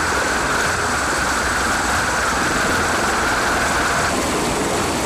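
Steady engine roar with a high whine that drops out about four seconds in.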